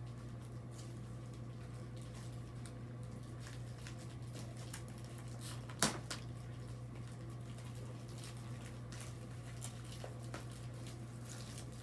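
Faint clicks and rustles of small craft items being handled, with one sharper click about six seconds in, over a steady low electrical hum.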